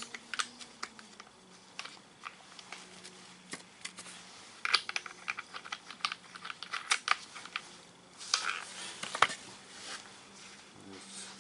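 Scattered clicks and clinks of small metal parts and tools being handled while an angle grinder's disc is changed. The grinder is not running.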